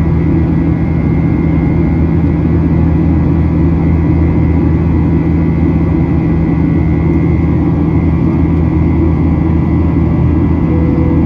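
Steady cabin drone of a Boeing 737-800 in flight, heard from a passenger seat: the engines' deep, even hum with airflow noise over it. A short faint tone comes near the end.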